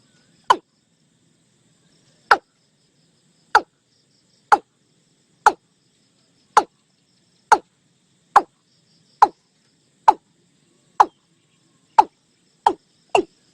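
Watercock calling: a series of short, loud notes, each falling sharply in pitch, about one a second, quickening near the end.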